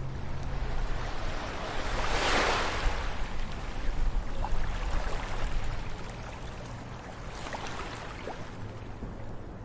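Ocean waves breaking on a beach over a steady low surf rumble. One wave crashes and washes in about two seconds in, and a smaller one follows near the end.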